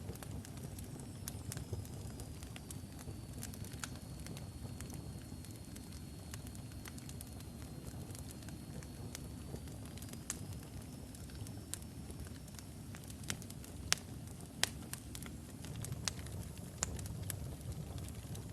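Wood logs burning in a fireplace: a low steady rumble of flames with scattered crackles, and two sharper pops about three-quarters of the way through. A faint high whistle dips and rises again over the first two-thirds.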